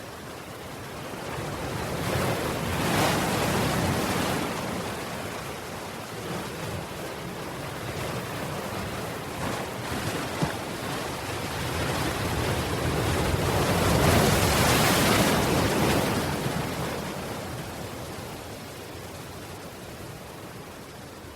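Ocean waves washing in on a shore: one wave swells and breaks about three seconds in, and a larger one follows around fourteen seconds, each dying back to a steady wash.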